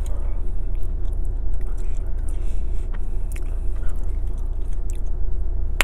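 Close-miked chewing of a mouthful of burrito with crunchy fajita vegetables, small wet clicks and crunches, over the steady low hum of the running car and its air conditioning inside the cabin.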